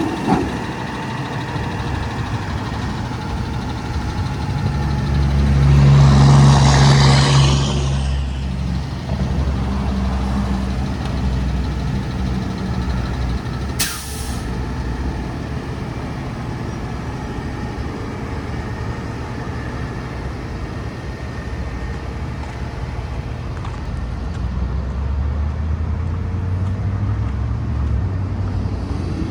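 Freightliner M2 garbage truck's diesel engine running steadily. About five seconds in, the engine note rises and a burst of air hiss, like an air brake release, swells and fades over a few seconds; a single sharp click comes near the middle.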